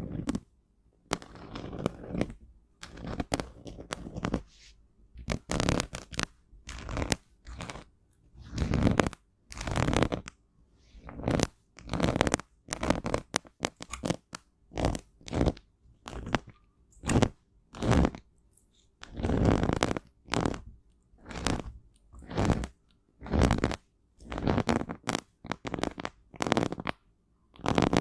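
Pressed cosmetic powder being crushed and scraped close to the microphone: a long run of short crunching strokes, about one a second, with brief pauses between them.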